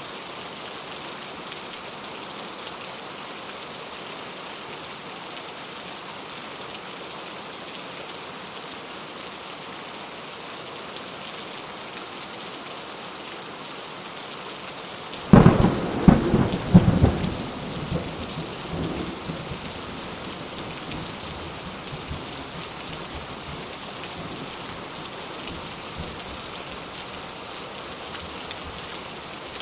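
Steady rain falling, with a sudden close thunderclap about halfway through that crackles for a couple of seconds and then rumbles away.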